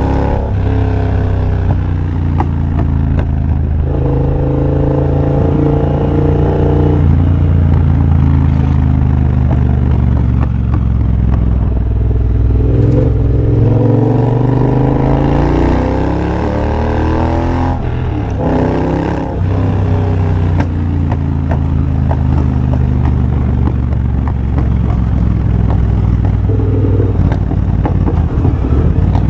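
2023 Triumph Bobber's 1200 cc parallel-twin engine running through a de-catted TEC X-pipe and Motone shorty exhaust while riding. The engine note is mostly steady, dips about halfway through, then climbs in pitch under acceleration and drops off again.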